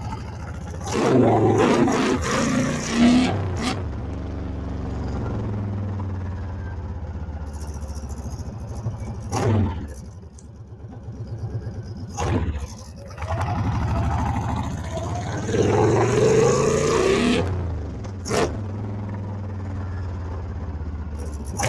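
Honda Fury's 1300 cc V-twin engine running steadily under way. It revs up about a second in and again around 15 s, eases off between about 10 and 13 s, and a few sharp clicks stand out along the way.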